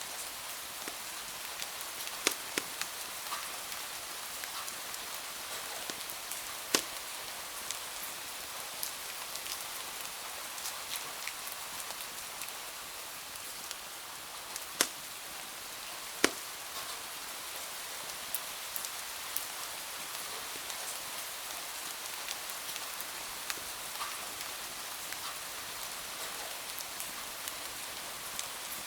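Steady rain hiss with the scattered sharp pops and crackles of a wood fire burning in a fireplace; a few louder pops stand out about 2, 7, 15 and 16 seconds in.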